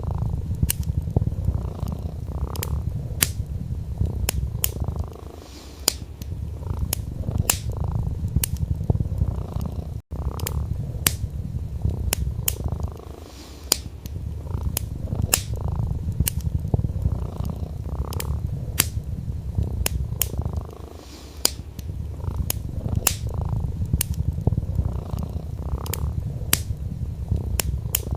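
Domestic cat purring, a steady low rumble that eases off briefly about every eight seconds, over a wood fire crackling with frequent sharp pops.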